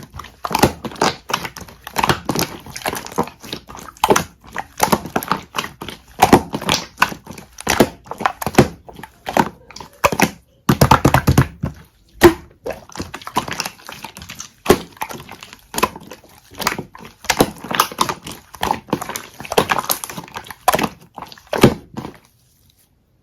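Hands pressing and stretching a soft, melted honey-jelly slime, making a quick, irregular run of wet squishes, pops and clicks that stops about a second before the end.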